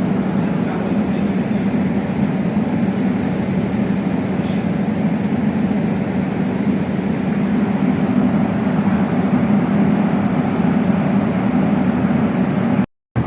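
Steady, loud mechanical rumble of running machinery or a vehicle engine, which cuts out abruptly for a moment near the end.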